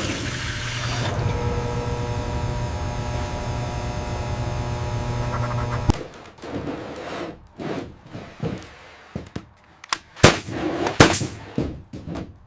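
A steady hum made of several held tones, like a running machine or tool, cuts off abruptly about six seconds in. A series of irregular knocks and thuds follows.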